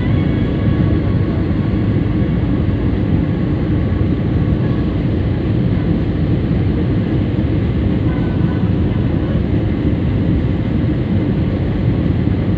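Steady airliner cabin noise, the engines and rushing airflow heard from inside the passenger cabin, even and unbroken throughout.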